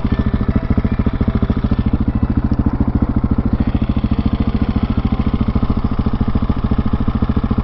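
Husqvarna 701 Supermoto's single-cylinder four-stroke engine idling, a steady even pulse of about ten firings a second.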